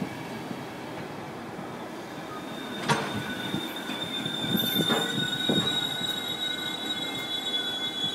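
Train moving through the station on steel wheels, with a high, steady wheel squeal on the rails starting about three seconds in and a few sharp clacks over rail joints.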